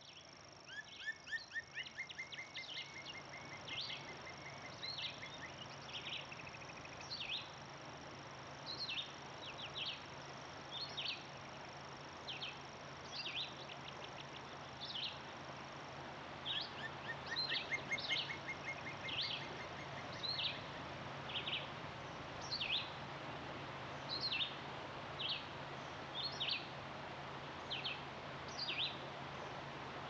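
Birds singing: short sharp calls repeated about every second or so, with a rapid trill twice, over a steady background hiss and a thin high whine in the first half.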